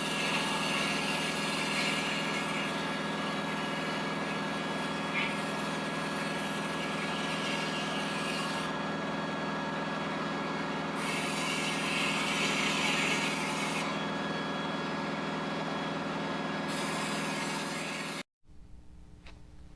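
A machine running steadily with a droning hum, while a high hiss cuts out twice for a few seconds and comes back each time. Near the end it stops abruptly, leaving a quiet room with a few light clicks.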